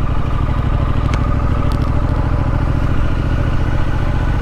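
Triumph Street Scrambler's 900 cc parallel-twin engine running steadily, a low even drone with no revving up or down.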